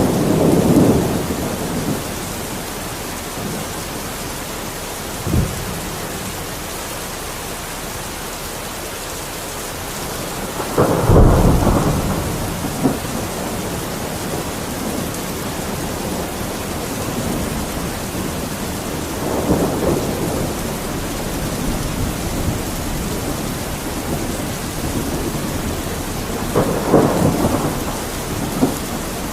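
Steady rain falling through a thunderstorm, with thunder rumbling several times. There is a brief sharp crack about five seconds in, and the loudest rumble comes about eleven seconds in.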